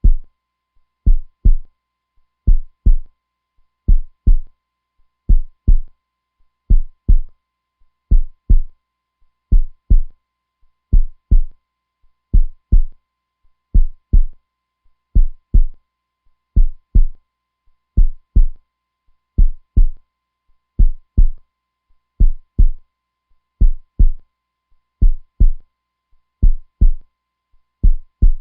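Heartbeat sound, a strong steady lub-dub: pairs of deep beats repeating evenly, about one pair every second and a half.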